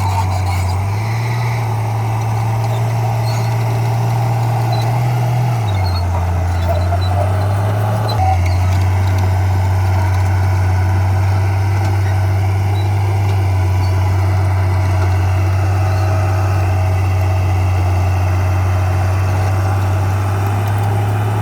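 Diesel engine of heavy earthmoving machinery running steadily, its low drone stepping up and down in pitch a few times.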